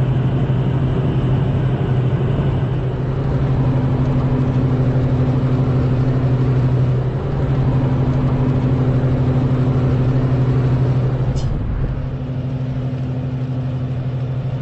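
Aircraft engines droning steadily in flight, a constant low hum that eases slightly about eleven seconds in.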